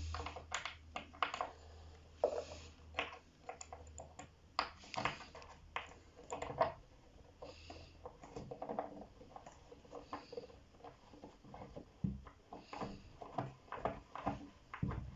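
Irregular clicks, taps and knocks of screws, a small spanner and particleboard wardrobe panels being handled during flat-pack assembly, with a few brief scrapes. A low hum runs underneath and stops about eight seconds in.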